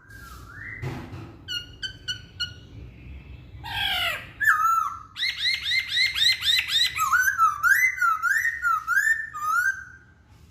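A Chinese hwamei (poksay Hongkong) singing a varied whistled song. It opens with a few short repeated notes, goes into a fast run of quick arching notes about halfway through, and ends with a string of swooping, rising-and-falling whistles.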